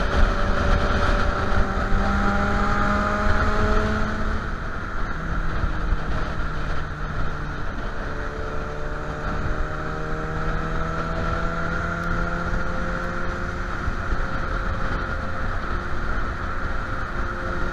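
Suzuki Bandit 650N's inline-four engine running at a steady cruise, its note drifting gently up and down, with wind rushing over the microphone.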